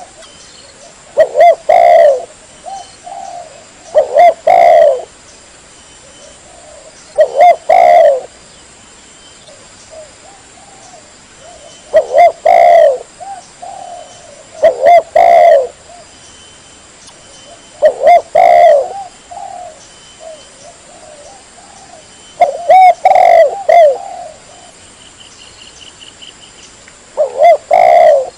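Spotted dove (tekukur) cooing: loud coo phrases repeated about every three to four seconds, with softer coos in between.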